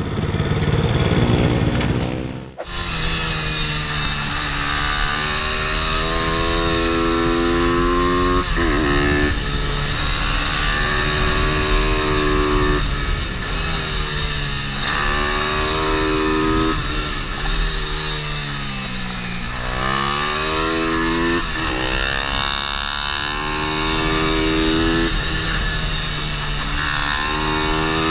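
Pit bike engine being ridden hard: its pitch climbs and drops again and again as it is revved out, shifted and eased off for corners, with wind noise throughout. The engine sound begins after a short break about two and a half seconds in.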